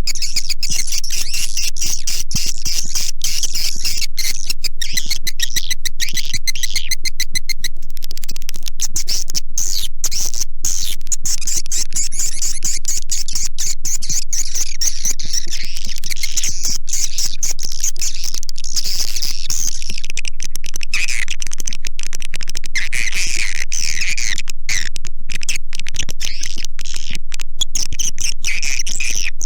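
Edible-nest swiftlet lure recording: many swiftlets in a dense, unbroken chatter of high chirps and rapid clicking trills, the kind of calling sound played to draw swiftlets into a nesting house.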